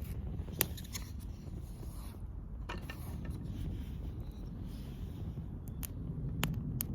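A steady low rumble of wind on the microphone, with scattered sharp clicks and snaps, the loudest about half a second in.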